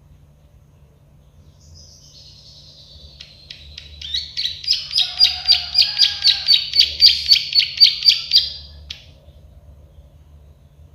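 Prenjak sawah, a small prinia known as the 'klik-klik' bird, singing. A soft rising phrase about two seconds in leads into a fast run of about twenty sharp clicking notes, four to five a second, which stops suddenly near the end.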